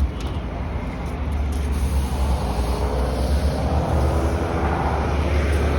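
City street traffic heard while cycling, with wind rumbling on the microphone; a motor vehicle's engine hum grows louder in the second half.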